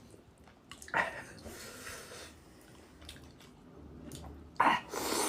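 Close-miked eating sounds: a person chewing saucy chicken, with a short wet mouth sound about a second in and a louder wet smack near the end.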